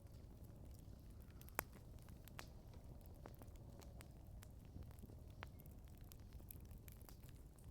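Wood campfire crackling faintly, with scattered sharp pops and one louder snap about a second and a half in.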